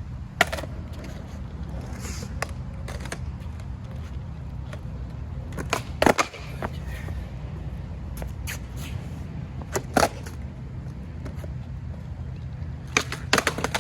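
Skateboard pops and clacks during heelflip attempts: a few sharp knocks of the board, loudest about six seconds in, with others about half a second, ten and thirteen seconds in, over a steady low rumble.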